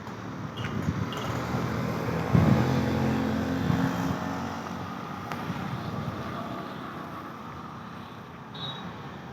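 Sonalika 745 tractor's diesel engine running, growing louder about two and a half seconds in and easing off gradually over the following seconds.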